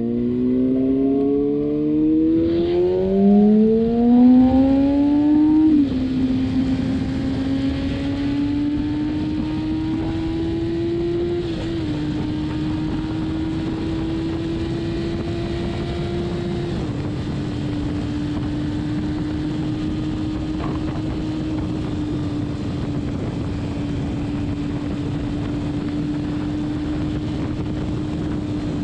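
Kawasaki Ninja ZX-6R inline-four engine accelerating hard, its pitch climbing, dropping at an upshift and climbing again through the first six seconds. It then settles into a steady high-rev highway cruise, with small pitch drops at two more shifts around 12 and 17 seconds in, over a constant rush of wind noise.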